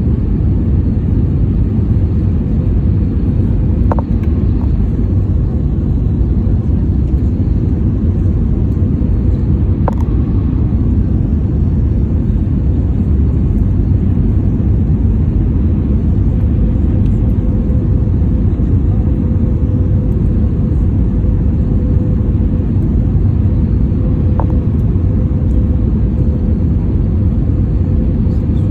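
Steady, low cabin rumble of an airliner in flight. A faint steady hum joins it about halfway through, and there are a few faint clicks.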